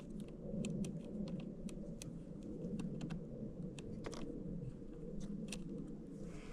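Light, irregular metal clicks of a hand tool loosening the bolt on a battery's negative terminal, over a low steady hum.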